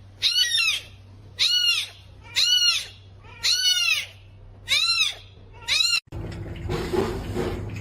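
A cat meowing over and over, high-pitched arched meows about one a second, six or seven in all. About six seconds in, the meows stop abruptly and give way to a steady noisy background.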